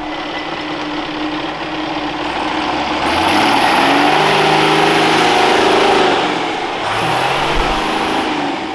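Off-road 4x4's engine revving up hard about three seconds in and holding high revs, dipping briefly, then revving up again near the end.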